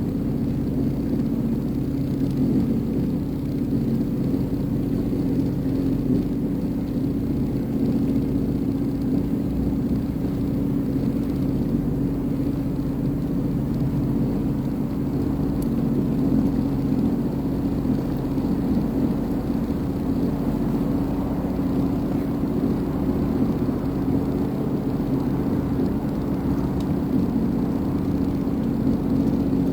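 Sea-Doo Fish Pro personal watercraft's engine running at a steady speed, an even drone and rumble that holds constant throughout.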